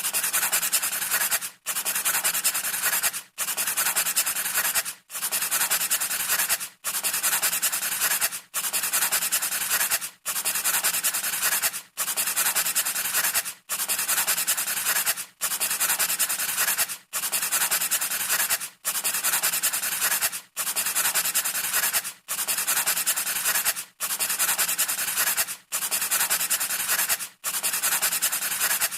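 Scratchy rubbing strokes, each lasting about a second and a half, with a brief break between them, repeating evenly about every 1.7 seconds.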